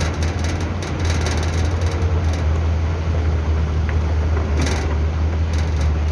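Tata truck's diesel engine running with a steady low drone, with a rattle that comes and goes.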